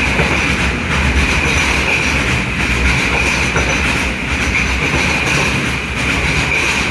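Freight wagons of a container train rolling past at speed, wheels clattering over the rail joints under a steady loud rush, with a continuous high squeal from the wheels.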